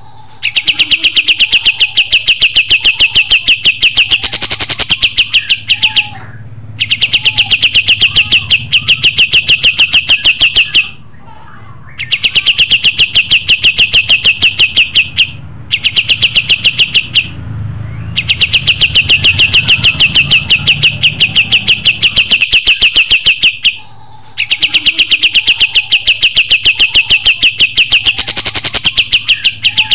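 Kapas tembak songbird singing: a loud, rapid chatter of repeated high notes in phrases of several seconds, broken by short pauses, about five phrases in all.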